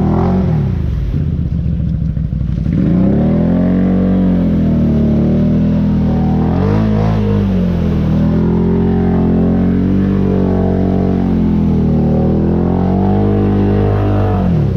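ATV engine running while being ridden, its revs rising and falling with the throttle. The revs drop off about half a second in and pick back up about three seconds in, then hold fairly steady with smaller swells.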